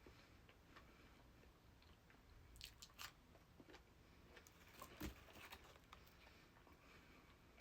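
Faint mouth sounds of eating: biting and chewing with a few crisp clicks, clustered about two and a half to three seconds in, and one louder crunch about five seconds in.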